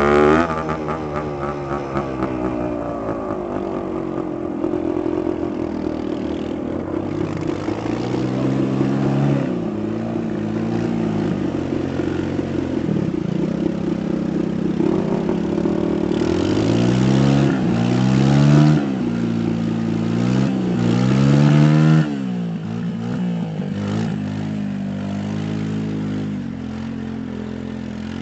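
Dirt bike engine revving, its pitch climbing and falling again several times, then dropping back to a steady idle about two thirds of the way through.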